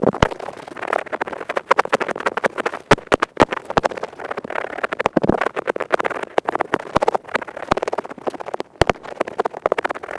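An earpick scratching fast, a crisp kari-kari scraping with sharp clicks, several strokes a second and unevenly spaced.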